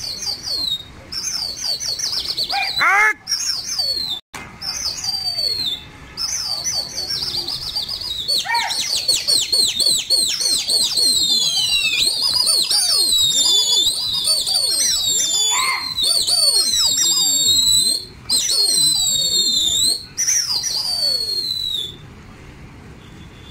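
Many small birds chirping, with high, downward-sliding calls that crowd together into a thick overlapping chorus. The chorus cuts off suddenly near the end.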